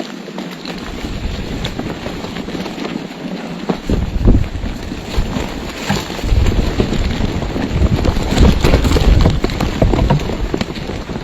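Wind buffeting the microphone: a noisy rumble that gets much louder about four seconds in and eases near the end, with scattered clicks.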